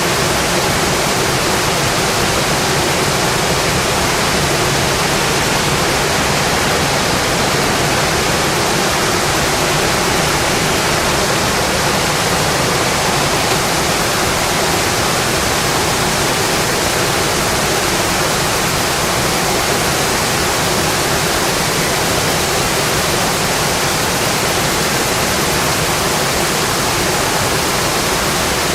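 Rain falling on a windowpane, a steady even hiss.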